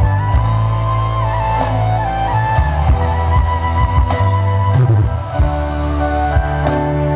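Loud instrumental music played through a demo sound system's speakers and subwoofers, with heavy bass and a bending lead melody like an electric guitar.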